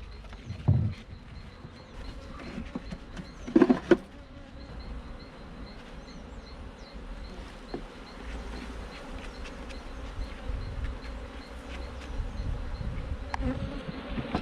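A wild honey bee colony buzzing steadily around its hive in a car tire, the bees stirred up by the removal. A louder short burst comes about four seconds in, with a few faint clicks later.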